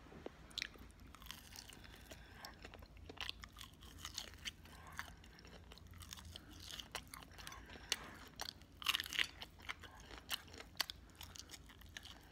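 Biting and chewing a fried chicken wing, a run of short crunches with a louder cluster of bites about nine seconds in.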